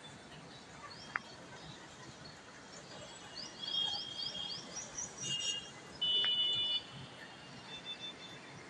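Birds chirping over a faint, steady city background noise: a quick run of high chirps a few seconds in, and short held high notes, the loudest about six seconds in.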